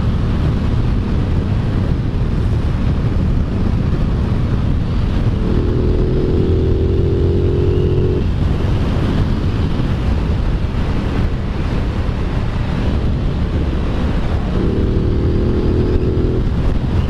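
Aprilia Tuono 660's parallel-twin engine running under way, a steady low hum with the engine note swelling and climbing slightly twice, about five seconds in and again near the end, as the throttle is opened.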